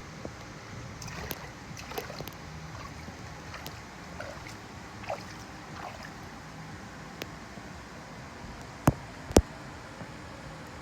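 Water of a lazy river flowing and gurgling, with scattered small splashes. A few sharp knocks stand out, the loudest two close together near the end.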